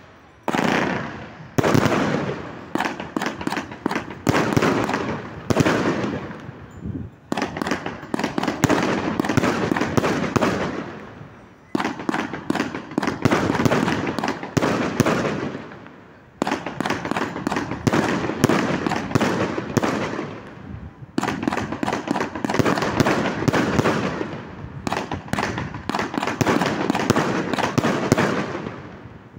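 Aerial fireworks bursting in rapid volleys of sharp bangs and crackling, with short lulls every four to five seconds.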